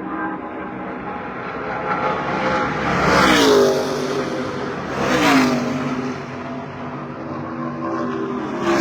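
NASCAR Truck Series race trucks' V8 engines at speed on the oval. Two pass close by, about three and a half and five seconds in, each dropping in pitch as it goes past, and a third comes past at the very end. Between passes there is a steady engine drone from trucks elsewhere on the track.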